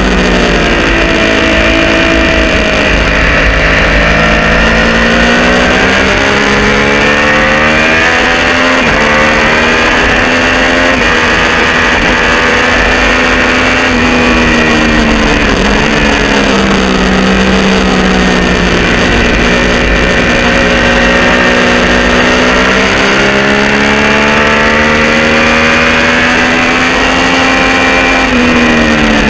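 Triumph Street Triple R 675's three-cylinder engine through an unbaffled Arrows exhaust, heard onboard at speed on a race track. The engine note climbs and drops in pitch again and again as the bike accelerates through the gears and slows for corners.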